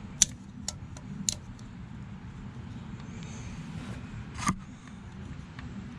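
Metal propeller hardware being handled on an outboard's lower unit: a few sharp clicks and clinks, three in the first second and a half and a louder one about four and a half seconds in, over a low steady background hum.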